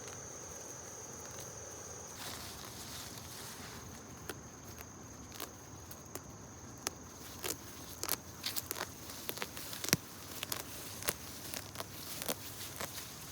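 Steady high-pitched insect drone, like crickets or cicadas, with irregular sharp snaps and crackles that grow busier from about four seconds in, the loudest near the ten-second mark.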